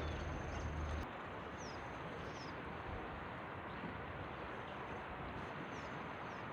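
Steady rush of a river running, with a thin high steady drone and three short, high chirps that slide downward. A low rumble fills the first second and cuts off abruptly.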